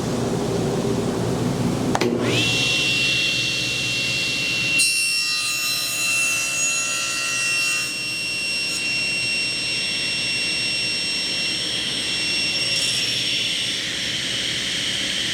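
Miter saw starting up about two seconds in: the motor whines up to a steady high pitch and runs while the blade crosscuts a board.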